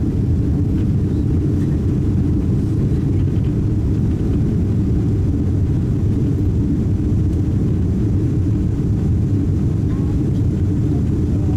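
Steady low rumble inside an airliner cabin on the ground after landing: engine and air-conditioning noise, with faint voices near the end.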